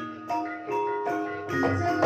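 Banyumasan gamelan playing an ebeg-style gending: struck, ringing metallophone notes in a steady melodic run, with a low drum stroke near the end.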